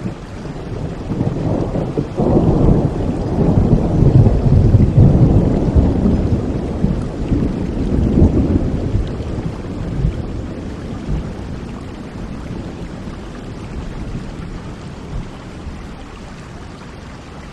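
Steady rainfall with a long roll of thunder: a deep rumble builds about two seconds in, is loudest for several seconds, then slowly fades away under the rain.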